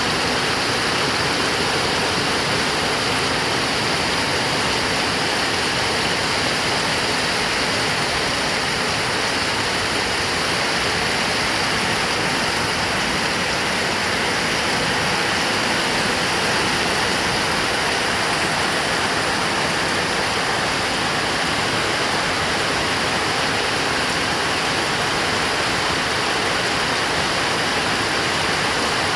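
Heavy rain pouring steadily, a dense even hiss with no breaks or rumbles.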